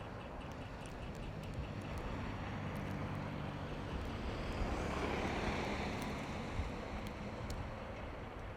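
A motor vehicle passing: a low engine hum and tyre noise that swell to a peak about five seconds in, then fade away.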